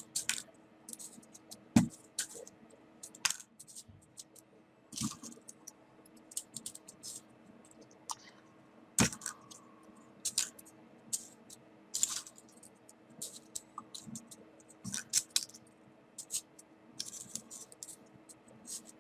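Small folded paper 3D origami pieces being handled and pushed into place on a paper model, giving irregular crisp clicks and short paper crackles, the sharpest about two seconds in, nine seconds in and twelve seconds in.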